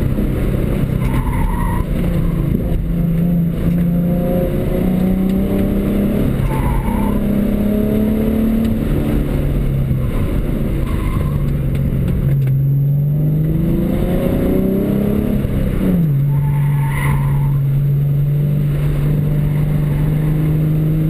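2007 Ford Mustang's 4.0-litre V6, fitted with a cold-air intake, tune and axle-back exhaust, heard from inside the cabin on an autocross run. The engine note rises and falls with the throttle, then makes one long climb in revs and drops sharply at an upshift about three-quarters of the way through before holding steady. Brief tyre squeals come a few times.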